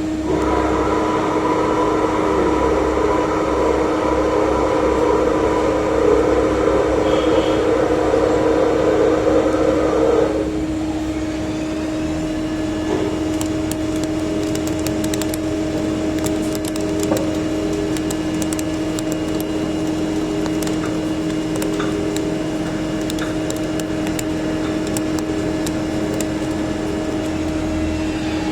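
CNC lathe running with a steady motor hum. A louder rushing noise sits over the hum for about the first ten seconds, then stops abruptly. After that the machine hums on with scattered sharp ticks.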